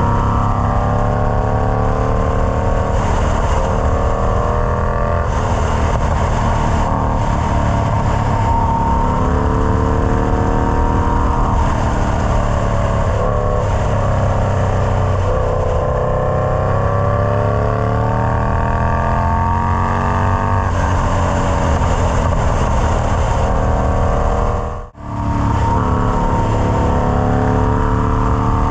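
Indian Scout Bobber's liquid-cooled V-twin engine running through a Freedom Performance Combat 2-into-1 exhaust, its pitch rising and falling again and again as the revs change. Near the end the sound drops out for an instant.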